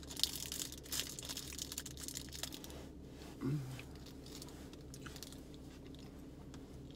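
Close-up chewing of a protein bar, with small crunching bites that are busiest in the first few seconds and then die down. A brief low vocal sound comes about halfway through.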